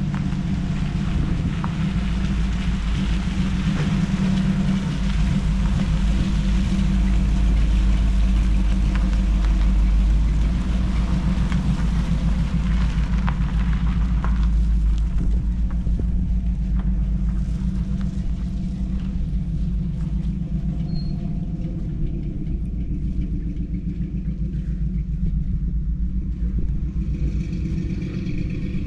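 A vehicle's engine running as it comes down the driveway hauling a load, growing louder until about a third of the way through, then easing off.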